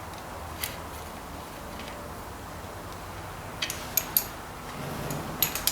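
A few scattered small metallic clicks and taps of bolts and lock washers being handled, one about half a second in, several around four seconds in and a quick cluster near the end, over a quiet steady background.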